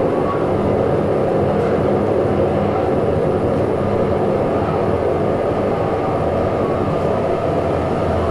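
A dense, steady rumbling drone with a few faint held tones, part of an improvised experimental sound performance.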